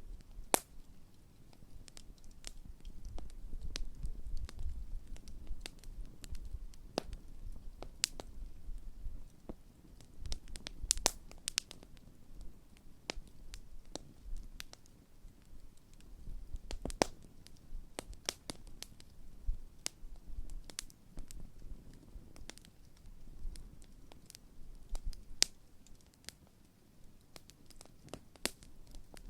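Large wood campfire crackling, with irregular sharp pops, a few louder than the rest, over a low rumble of the burning fire.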